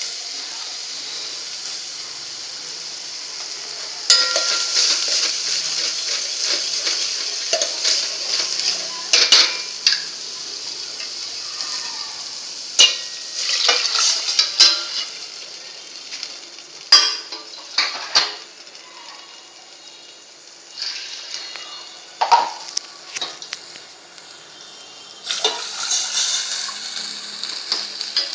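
Hot oil sizzling in a pan for a tadka, with a spoon stirring and clinking against the pan. The sizzle gets louder about four seconds in and dies down over the second half, while the clinks go on.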